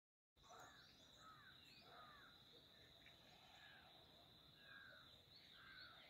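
Faint bird calls outdoors: short arching chirps repeating about every second, over a steady high-pitched tone.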